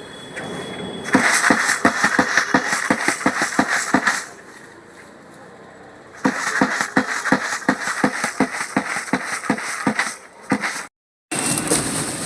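Rapid knocking, about five knocks a second, in two runs of about three seconds each over a hiss, with a quieter stretch between them.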